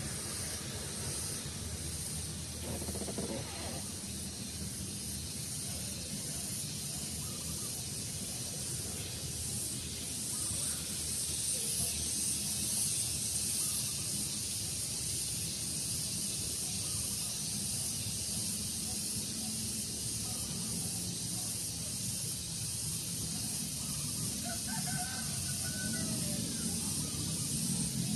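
Steady daytime outdoor ambience of a breeze: a constant high hiss over a low rumble, growing slightly louder after about ten seconds, with a few faint calls late on.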